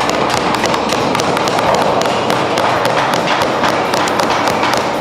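Hammers tapping and knocking on wood, many irregular, overlapping strikes, as several birdhouses are being built at once.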